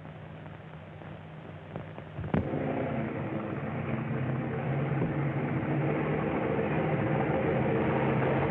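An engine running steadily, with a sharp click about two and a half seconds in, after which the engine gets louder and holds.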